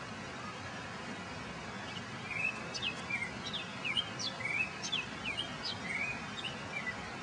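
A small bird chirping: a string of short, high, quick notes, some sweeping up or down in pitch. It starts about two seconds in and stops shortly before the end, over a steady background hiss.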